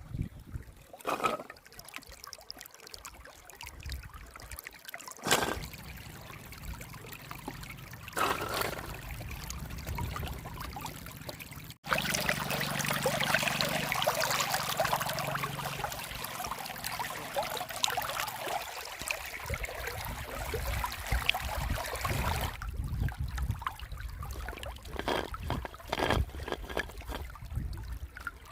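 River water running and trickling, with a few knocks in the first part. About twelve seconds in the sound breaks off abruptly and returns as louder rushing, splashing water for about ten seconds, then drops back to the quieter flow.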